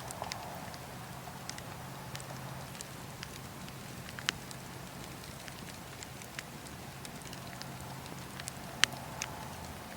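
Campfire burning: a steady hiss with scattered sharp crackles and pops. The loudest pops come about four seconds in and near the end.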